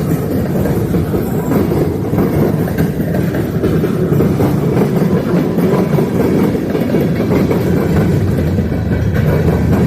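Freight train rolling past, a steady loud rumble of cars moving over the rails.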